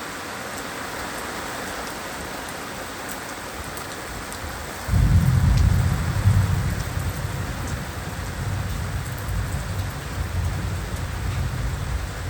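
Heavy rain falling steadily. About five seconds in, a rumble of thunder breaks in suddenly, loudest for a second or so, then rolls on more softly under the rain.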